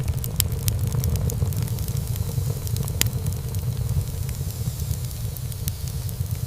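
Wood fire burning in a fireplace: a steady low rumble of flames with frequent small crackles and pops of burning wood, and a sharper pop about three seconds in.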